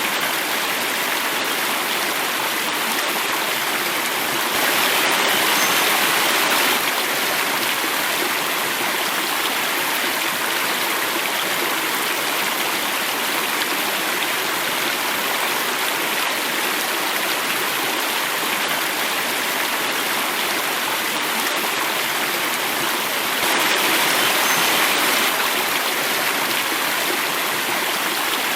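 Water flowing and falling in a cascade: a steady, even rush that swells a little louder twice, about five seconds in and again near the end.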